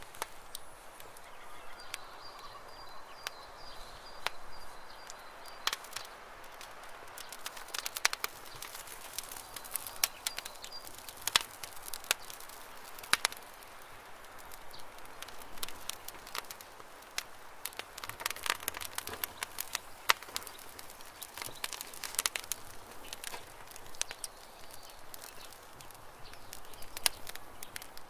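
Campfire burning with irregular crackles and sharp pops from the burning wood over a soft steady rushing.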